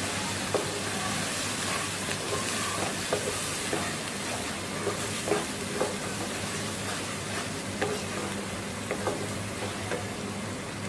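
Onion-and-spice masala sizzling in hot oil in a frying pan while a spatula stirs it, scraping and knocking against the pan now and then.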